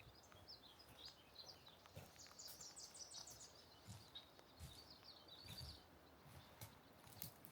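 Faint bird chirping, a quick twittering run of high notes that fades out about three quarters of the way through, with a few soft knocks and clicks among it.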